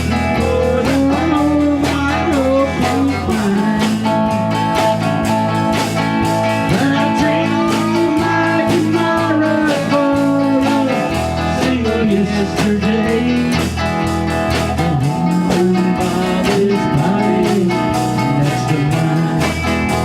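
Blues-rock band playing an instrumental passage: a lead guitar plays bending melodic lines over steady bass and drums.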